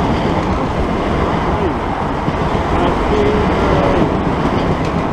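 Gatwick Express electric train running past, a steady loud rumble of its wheels and carriages on the rails.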